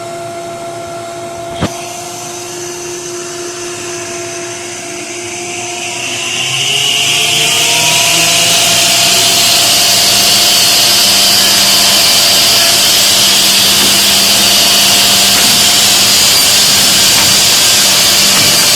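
Portable edge banding machine running: a steady motor whine, a single click about a second and a half in, then from about six seconds in a much louder, high, hissing whir that holds steady.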